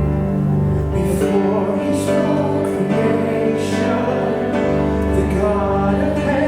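Choir singing a gospel-style worship song over sustained instrumental accompaniment. The voices come in about a second in.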